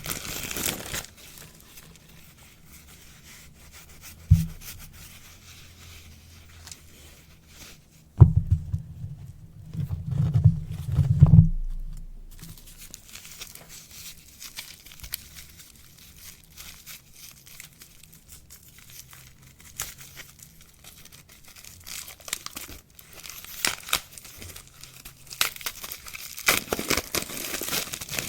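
Soap packaging being crinkled and torn open by hand, with a stretch of dull low thumps and bumps from handling about a third of the way through, and louder crinkling again near the end.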